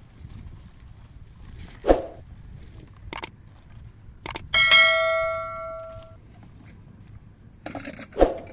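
A few knocks and clatters, and one sharp metallic strike about halfway through that leaves a clear, bell-like ring dying away over about a second and a half.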